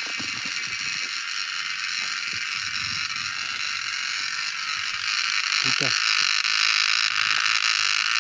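A dense, steady, buzzing chorus of cicadas, getting louder about halfway through. Faint voices sound underneath.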